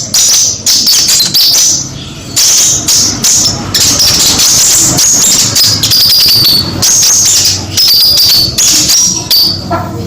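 Sunbird ('kolibri') lure call recording: rapid, high-pitched chirping and trilling in repeated phrases, with a few short pauses.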